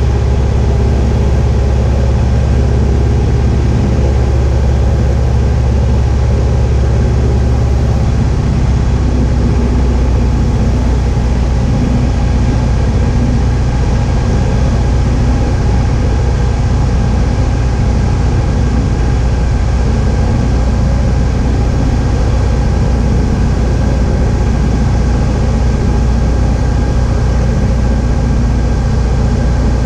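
Cessna 172H's Continental O-300 six-cylinder piston engine and propeller running steadily. The engine note changes about eight seconds in.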